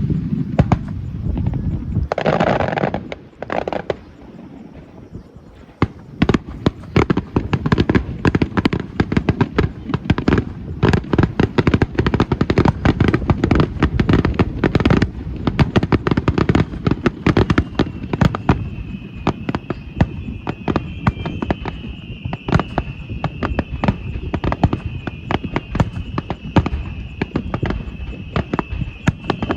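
Fireworks display: a couple of heavy booms in the first few seconds, then a long, dense run of rapid crackling reports. A steady high tone joins about two-thirds of the way in and carries on over the crackling.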